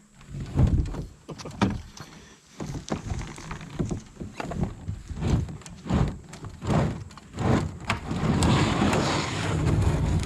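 A kayak being handled at launch: a series of knocks and thumps against the hull, then a steady rushing scrape from about eight seconds in.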